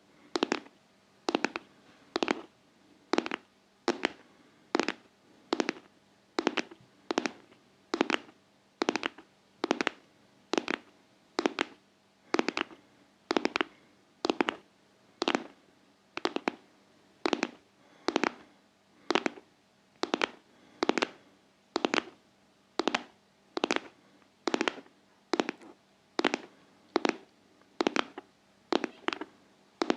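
ASMR tapping in a steady heartbeat-like rhythm: sharp taps, often in close pairs, a little faster than one a second.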